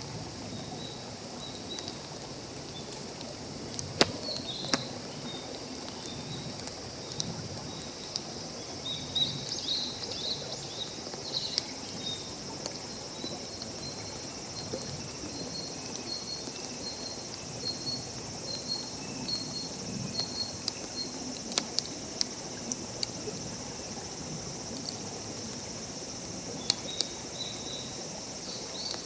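Wood campfire crackling with a few sharp pops, over a steady outdoor hiss, while small birds chirp in short runs.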